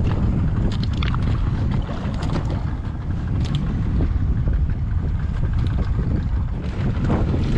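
Wind buffeting the microphone on a small boat at sea: a steady low rumble, with a few light clicks and knocks scattered through it.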